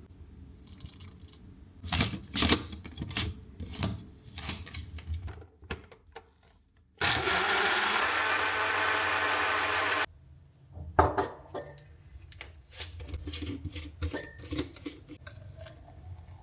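Knocks and clinks of kitchen handling. About seven seconds in, an electric blender runs steadily for about three seconds and stops abruptly, blending a smoothie. More clattering and knocks follow.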